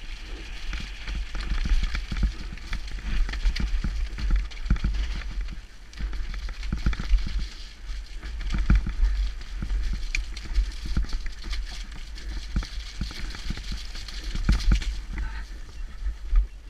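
Mountain bike descending a rough downhill trail, heard from a helmet or bike camera: tyres rushing over dirt and stones, with frequent knocks and rattles from the bike over bumps, and wind buffeting the microphone. The trail noise eases a little near the end.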